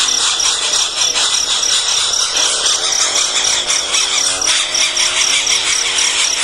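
Baby birds in the nest chirping continuously in a dense, high-pitched chorus, with a rapid pulsing note repeating throughout.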